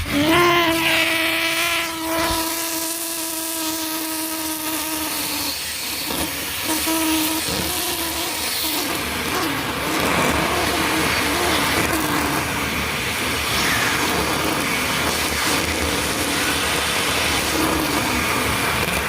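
Car wash equipment running with a steady rushing hiss and a machine whine. The whine holds one pitch for about five seconds, then wavers up and down.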